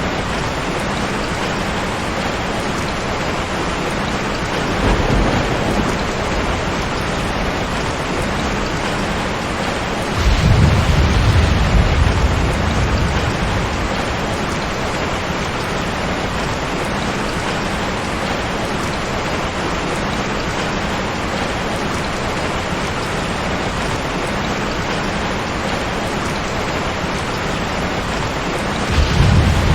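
Steady heavy rain with rolls of thunder. A short low rumble comes about five seconds in, a longer and louder one at around ten seconds that lasts a few seconds, and another begins near the end.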